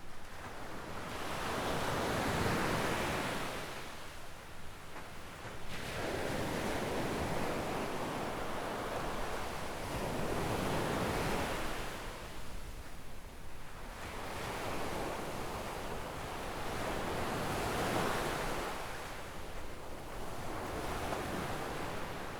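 Sea waves washing onto a sandy beach, the surf swelling and falling back in slow surges a few seconds apart.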